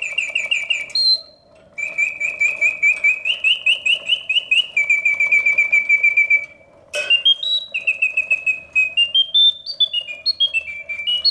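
The bellows-driven whistle of a 1968 Reuge singing bird cage in continuous song: rapid warbling trills that break off twice briefly, then a run of separate stepped notes rising and falling in pitch.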